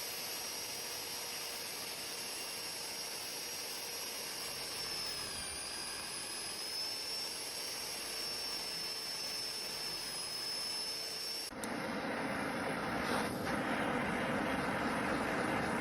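A high-speed electric power tool running with a high whine that sags briefly in pitch, as under load, working metal. About eleven seconds in it changes abruptly to a louder, rougher noise.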